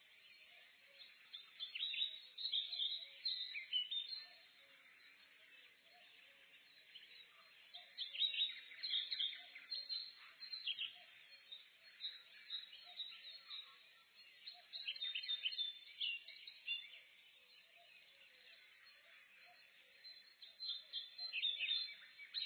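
Morning forest bird chorus: a steady background of distant birdsong, broken by louder bursts of chirping song from nearer birds about every six seconds.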